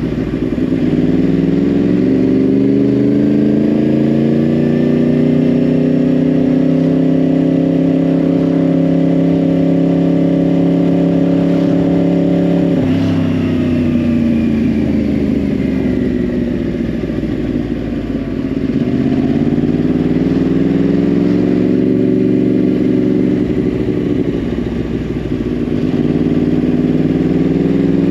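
2010 Yamaha R1's crossplane inline-four, through a Yoshimura exhaust, under way: engine note climbing slowly for about twelve seconds, dropping sharply about thirteen seconds in and falling away, then rising again, easing off near the end and picking up once more.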